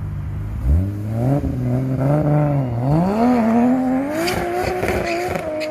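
Toyota Supra's straight-six engine idling, then revving hard about a second in as the car pulls away and accelerates hard. Its pitch climbs, dips at a gear change about three seconds in and climbs again, with a few sharp cracks near the end.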